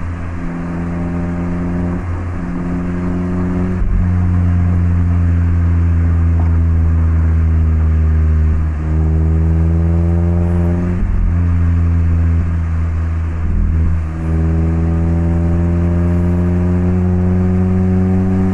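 Mazda MX-5 (ND) Roadster's 1.5-litre four-cylinder running through an HKS Legamax Sports aftermarket exhaust while driving: the engine note rises steadily under throttle and drops back at each of several gear changes.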